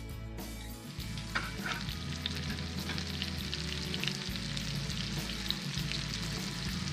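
Breaded veal escalopes sizzling in melted butter in a frying pan, with scattered pops of spitting fat; the sizzle builds up about a second in.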